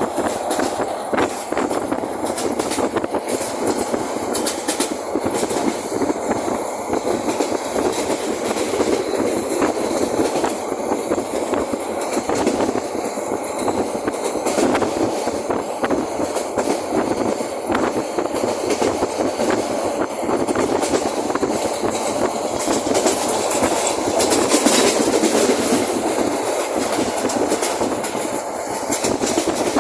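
Sonar Bangla Express train running steadily on the rails: a continuous rumbling noise of the wheels and carriages, with many short, irregular clicks.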